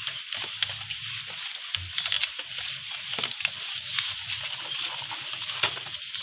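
Hand digging in wet garden soil around arrowroot (taro) plants: irregular small knocks, clicks and scrapes over a steady hiss.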